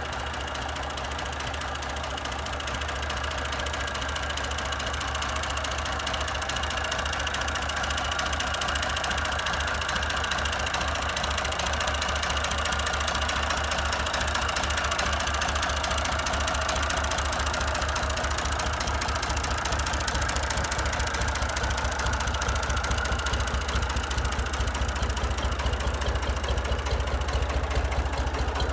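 Massey Ferguson 150 tractor engine idling steadily, with an even low pulsing beat that grows slightly louder over the stretch.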